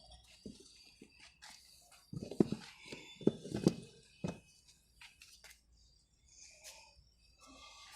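A series of short knocks and clatters. A cluster of louder ones comes about two to four seconds in, with lighter ticks before and after.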